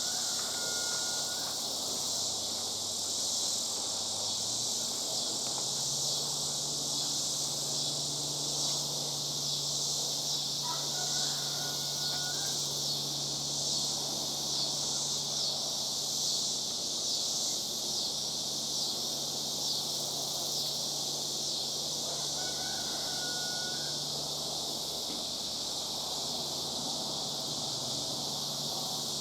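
Cicadas droning steadily in chorus, a high, evenly pulsing buzz. Three times, about half a second, eleven seconds and twenty-three seconds in, a short bird call breaks through, and a faint low hum runs underneath for most of the time.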